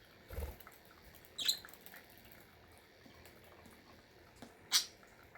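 Pet budgies giving two short, high chirps, about a second and a half in and again near the end, with a soft thump just before the first.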